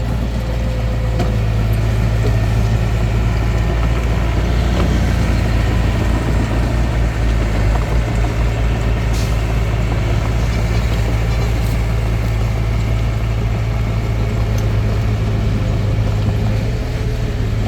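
Bulldozer's diesel engine running steadily with a low, constant hum, turning rougher and more uneven for a few seconds in the middle.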